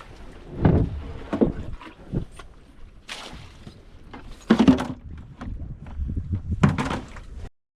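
Irregular thumps and knocks with bursts of scraping, a handful over several seconds, cutting off suddenly near the end.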